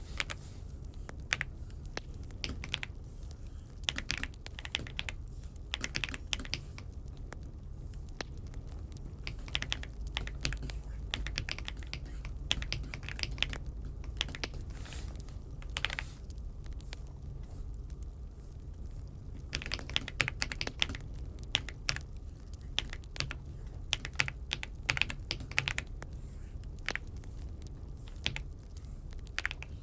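Typing on an Aula F75 mechanical keyboard: irregular runs of keystrokes with short pauses between them, over a steady low hum.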